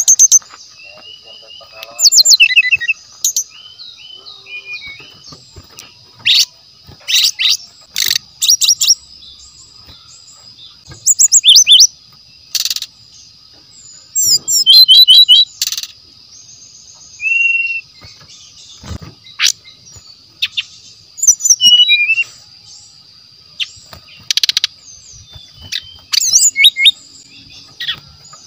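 Brown-chested jungle flycatcher singing: loud bursts of quick, sweeping whistled notes repeated every few seconds. A steady high-pitched hum runs underneath.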